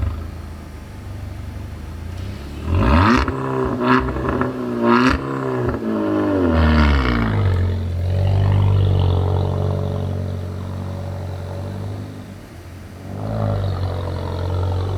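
Audi A6 Hybrid's engine running unevenly, its pitch wavering, with three clattering knocks about a second apart, then settling into a steady low hum that dips and picks up again near the end. It is an abnormal noise from a car that is broken.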